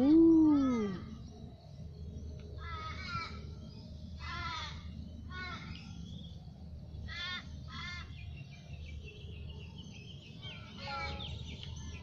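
Birds calling: a loud drawn-out call with a rising then falling pitch right at the start, then a string of short harsh calls over the following several seconds.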